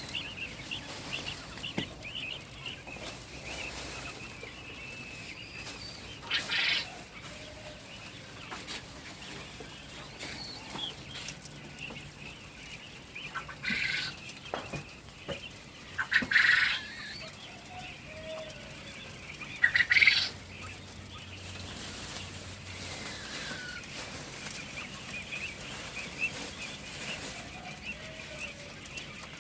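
Quail calling: four short, loud calls spread through the stretch, over a faint steady high chirping.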